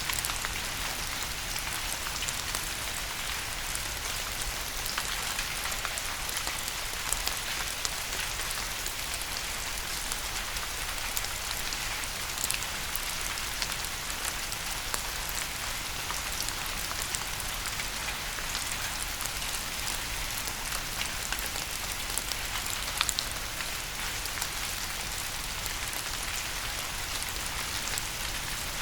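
Steady rain falling: a dense, even hiss sprinkled with many small drop ticks.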